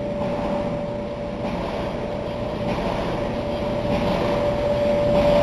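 Old Kelvinator electric clothes dryer starting up and running, its drive motor giving a steady whine over a rough rumbling drum, growing slowly louder. It has a thumping noise from a dented drum hitting the blower fan as it turns.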